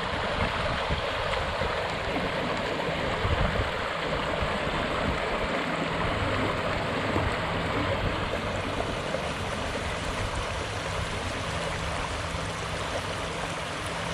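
River water rushing steadily past, heard with the microphone held down close to the water.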